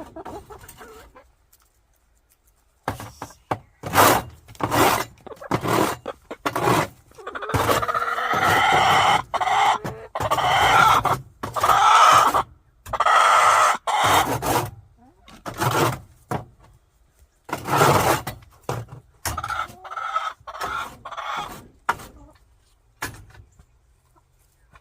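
A backyard hen squawking loudly and over and over, a long run of harsh calls that starts a few seconds in and dies away near the end. The calls are those of an agitated, upset hen.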